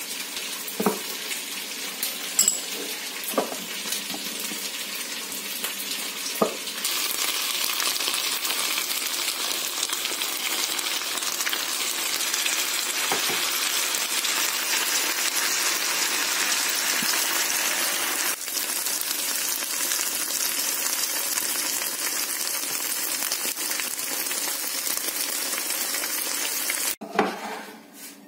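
Pieces of chicken fillet frying in a pan with a steady sizzle that grows louder after about seven seconds and cuts off suddenly near the end. A few clinks of a spoon against a small cup come in the first seconds, and a single knock sounds just as the sizzle stops.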